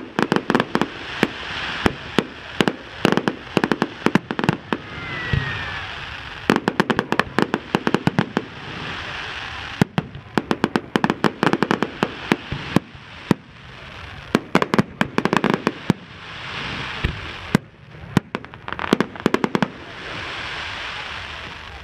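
Fireworks display: shells bursting into crackling stars, dense clusters of sharp rapid pops coming in waves every few seconds, with a couple of deeper thumps among them.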